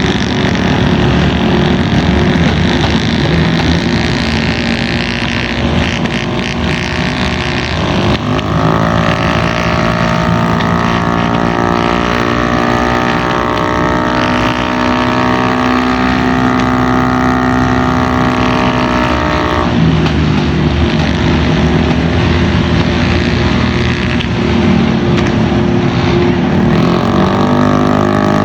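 Honda Ruckus 49 cc four-stroke scooter engine making a full-throttle run on a chassis dyno. After a rough start the engine note climbs slowly and holds for about eleven seconds, then drops sharply as the throttle is released. The note rises again near the end.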